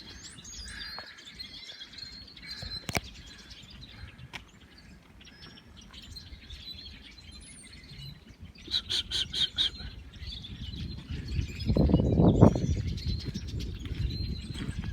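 Birds chirping and singing, with a quick run of about seven notes a little past halfway. A low rumble comes in about three seconds before the end and is the loudest part.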